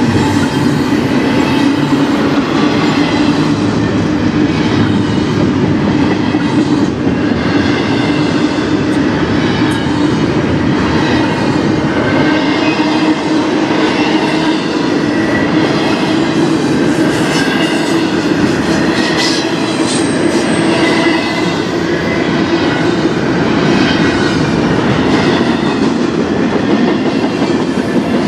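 Double-stack intermodal freight train's well cars rolling past close by: a steady, loud rumble of steel wheels on rail, with repeated clacking over the rail joints and faint high-pitched wheel squeals now and then.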